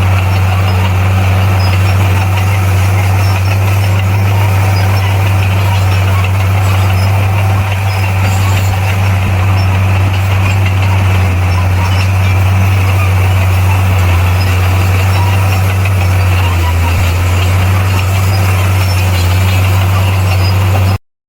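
Diesel engine of a crawler bulldozer running steadily with a low, even drone. The sound drops out for a moment just before the end.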